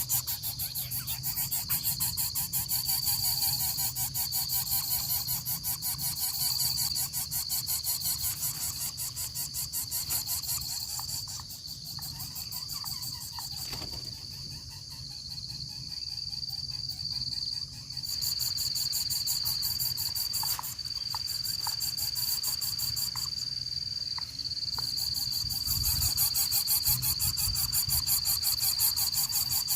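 Insects trilling steadily outdoors: a continuous high-pitched, fast-pulsing chirr that dips slightly in the middle and comes back.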